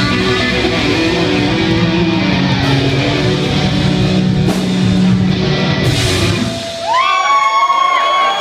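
Live hard rock band playing an instrumental passage with distorted electric guitar, bass and drums. About seven seconds in the band drops out, leaving a lone electric guitar holding sustained notes that bend up in pitch.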